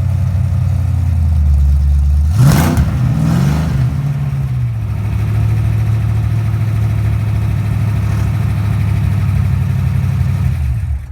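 306 small-block Ford V8 in a Fox-body Mustang, running through open exhaust dumps. It idles, is revved once in a quick blip about two seconds in that falls back to idle, and then cuts off near the end as the engine is shut down.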